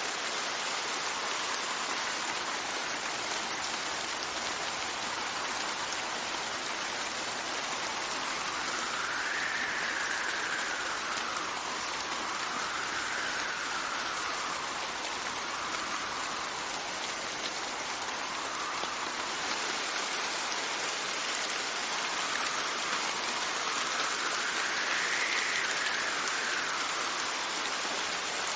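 Steady rain with wind gusting through it, the wind swelling and easing in pitch every few seconds.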